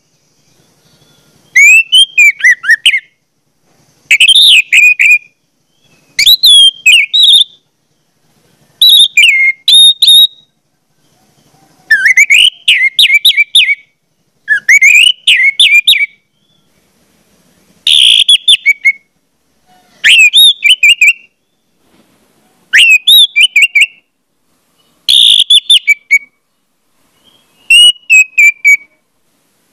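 Bird song: short phrases of quick, sweeping high whistled notes, repeated about every two and a half seconds with silence between.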